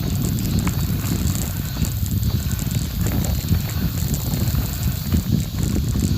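Bicycle freewheel ticking steadily while coasting, over a low rumble of tyres on a gravel forest road and wind on the microphone.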